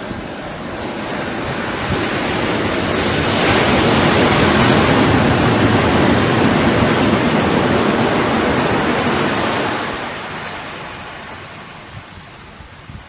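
Ocean surf: a wave swells up, breaks and washes out, loud in the middle and fading near the end. A faint high chirp repeats at an even pace throughout.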